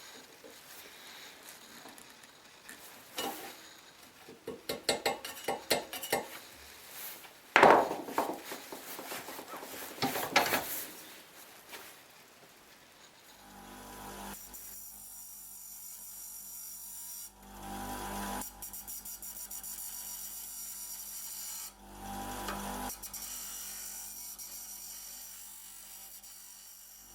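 Workshop tool sounds: scattered knocks and clatter, with two loud strikes, then a power tool's motor starts about halfway in and runs steadily. Twice it gets louder for a second or so as it works against the wood.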